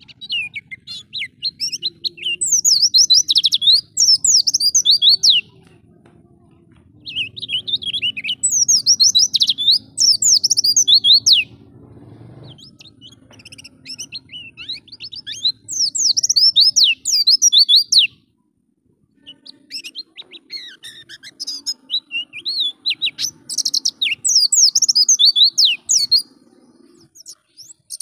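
White-eye (pleci) singing: rapid, high twittering phrases of quick chirps and trills in bursts of several seconds, broken by short pauses about a third of the way in, near the middle and near the end.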